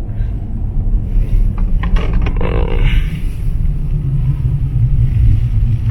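Steady low engine and road rumble inside a moving car's cabin, with a few faint clicks and a brief rustle about two seconds in.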